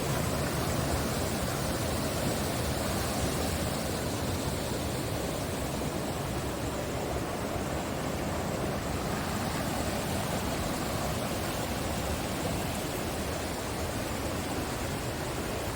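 Rushing water of a waterfall and its creek: a steady, even rush that eases slightly partway through.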